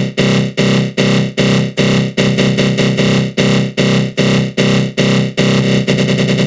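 Synthesized 'attack growl' sound effect: a loud, thick synth tone put through a flanger, pulsing about two and a half times a second. About five seconds in, the pulsing changes to a faster, steadier flutter.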